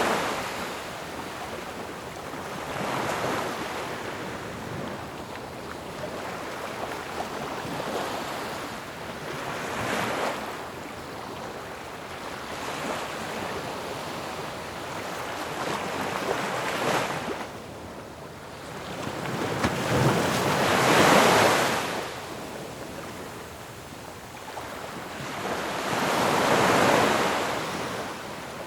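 Ocean waves breaking on a shore, a continuous rush of surf that swells with each wave every few seconds, the strongest breakers a little past two-thirds through and near the end.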